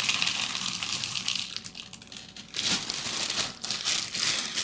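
Plastic cereal bag crinkling as it is handled, in two stretches with a quieter gap about a second and a half in.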